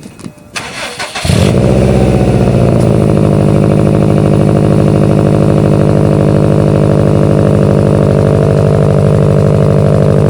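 2010 Subaru Impreza WRX STI's turbocharged flat-four boxer engine starting for the first time through a newly fitted Invidia N1 single-exit exhaust. It cranks briefly, catches about a second in, and then idles loud and steady with an even, rapid pulse.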